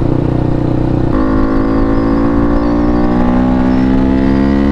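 KTM RC390's single-cylinder engine through a full-system aftermarket exhaust, pulling hard under throttle. About a second in, the note drops once, then climbs steadily as the bike accelerates.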